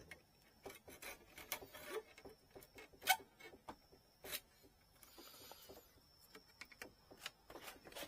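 Faint clicks and light taps of hand work on a bamboo rod section, with a brief rubbing or scraping sound about five seconds in.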